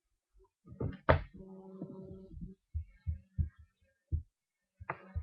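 A series of short, low knocks and thumps at uneven intervals, the loudest about a second in, over a low electrical hum that cuts in and out.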